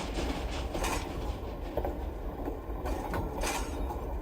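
Model train running slowly on the track, with a low rumble and scattered sharp clicks of wheels over rail joints and switch points.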